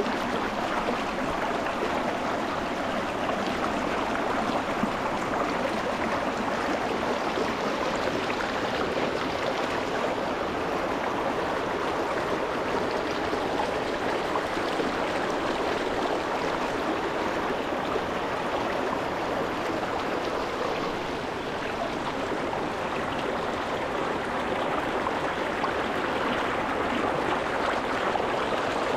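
Shallow rocky mountain stream flowing, a steady rush of water over rocks close to the microphone.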